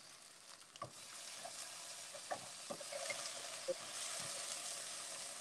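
Octopus pieces sizzling in oil in a nonstick frying pan, with a few light clicks of the tongs against the pan as the pieces are turned over.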